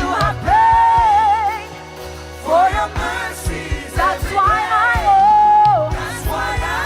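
Live gospel worship music: a singer holds long notes with a wavering vibrato over a band with a steady bass line and drums.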